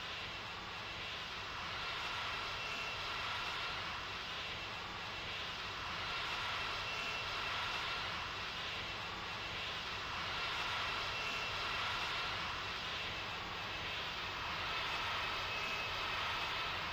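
Engine running steadily at a constant speed: a high, even whine over a rushing noise, swelling and easing slightly every couple of seconds.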